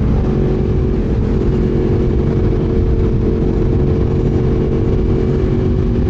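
Crossplane inline-four sport bike engine running at a steady cruising speed, its note held even.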